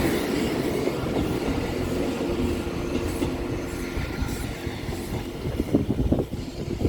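Train running over a level crossing and moving away, its rumble slowly fading, with clicks of wheels over rail joints in the last few seconds.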